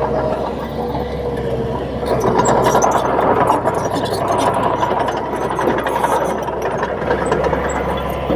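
Crawler bulldozer's diesel engine running steadily, getting louder about two seconds in, with scattered metallic clanks and rattles from the machine as it works.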